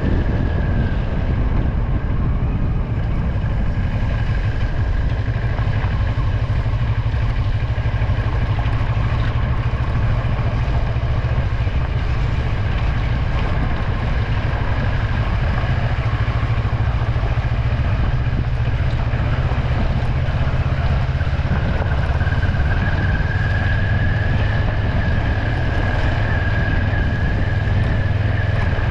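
Vehicle driving on a wet road: steady low engine and road rumble with tyre hiss, and a thin high whine that grows stronger about two-thirds of the way through.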